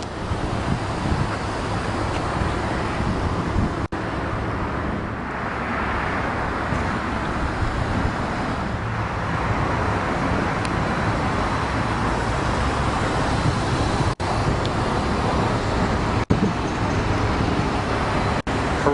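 Steady low vehicle rumble with a hiss over it, interrupted by four very short dropouts.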